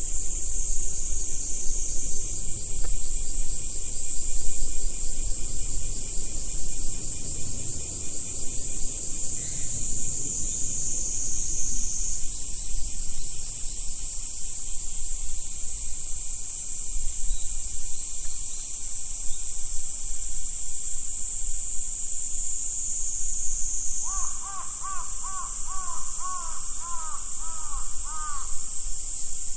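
A steady, high-pitched chorus of insects shrilling, with a bird calling a quick series of about ten harsh, arched notes for about four seconds near the end.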